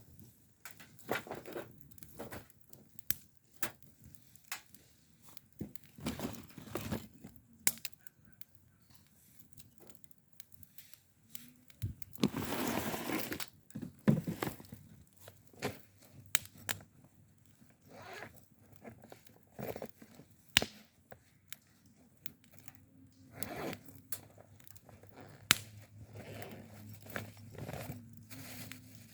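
Crinkly material being handled, crumpled and torn: scattered irregular rustles and clicks, with one longer tearing sound of about two seconds a little before the middle.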